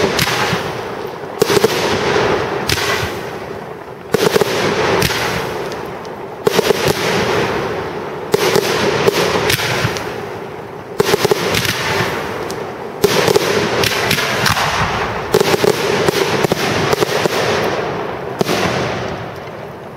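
Professional fireworks display: aerial shells bursting one after another, about every two seconds. Each bang is followed by a dense crackle that fades, and the last burst dies away near the end.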